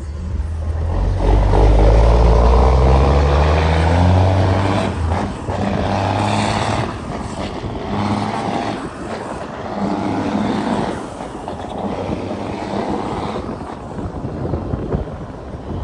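Cat 6NZ inline-six diesel in a Kenworth W900L hauling a 50-ton load, pulling hard. The engine note climbs steadily for a few seconds and drops sharply about five seconds in, then rises and falls several more times.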